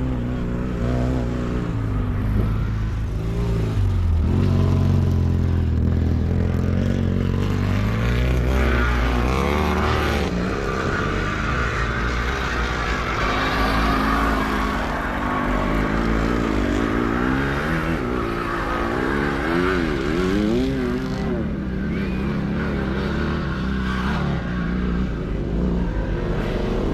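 Sidecar motocross motorcycles racing, engines revving up and down as machines pass, over a steady low engine drone.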